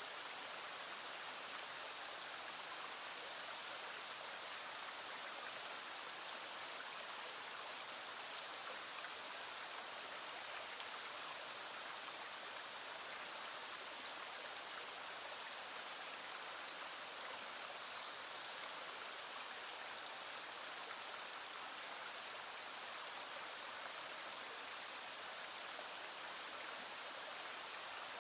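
Small stream flowing over rocks, a steady, even rushing of water.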